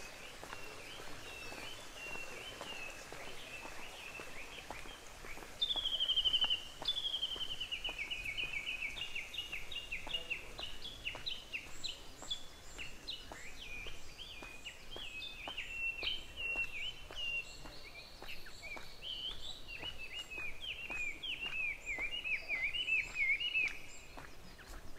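Small songbirds singing in quick chirps and descending trills, starting about five seconds in and continuing throughout, over faint, regular footsteps.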